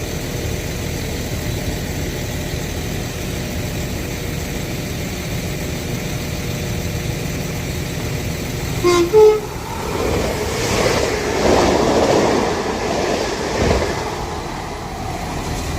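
A Transport for Wales Class 197 diesel multiple unit rumbles at the platform. About nine seconds in a train horn gives a short two-note blast, rising in pitch, and a TransPennine Express Class 397 electric unit then passes through at speed, its noise swelling for a few seconds and fading.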